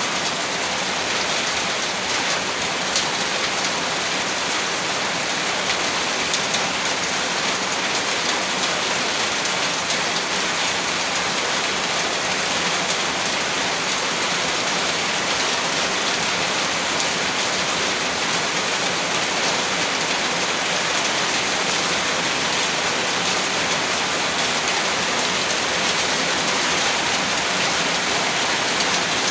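Heavy rain falling steadily, a dense unbroken patter of drops.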